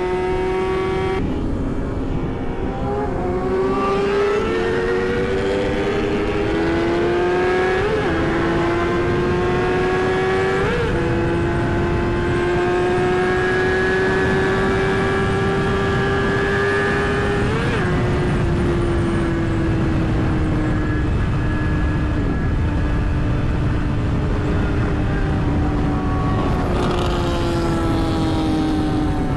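Yamaha R6 sport bike's inline-four engine running at high revs under way, its pitch climbing and sagging with speed, with several quick gear changes, over steady wind rush on the microphone.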